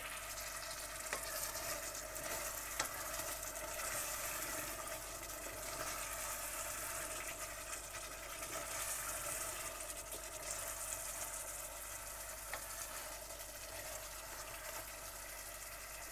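Chicken curry masala sizzling as it fries in a stainless steel saucepan while a spoon stirs it, with a few faint knocks of the spoon against the pan. It is at the bhuna stage, frying until the oil separates from the masala.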